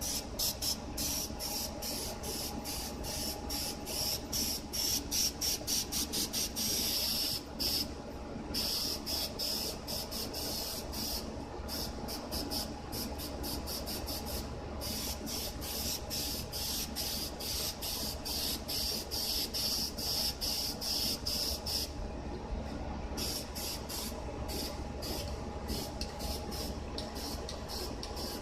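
Aerosol spray paint can spraying in many short hissing bursts in quick succession, with a longer continuous spray about seven seconds in and a brief pause past the twenty-second mark.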